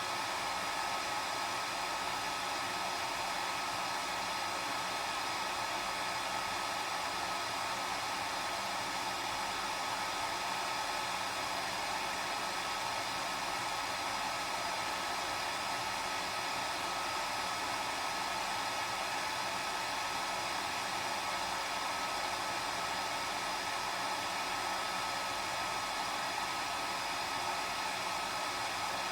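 Hair dryer running continuously at a steady speed: an even rushing of air with a steady whine from its motor.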